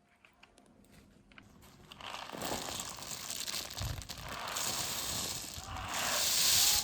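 Crinkling, rustling noise that builds from about two seconds in, in three swells, loudest near the end.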